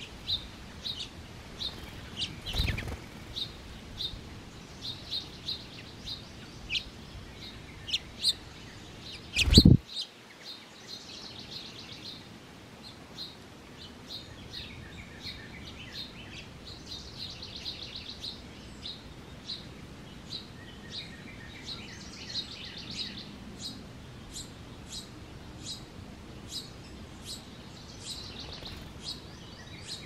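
Songbirds chirping, one short high chirp about every second, with a few short bursts of warbling song. Two dull thumps break in, near the start and about ten seconds in, the second the loudest sound.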